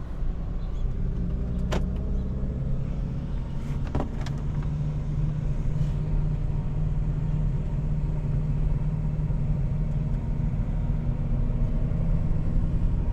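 Kia Forte GT's turbocharged 1.6-litre four-cylinder engine running at low revs as the car putts along slowly, freshly dosed with intake-valve cleaner. A steady low hum, with a couple of short clicks in the first few seconds.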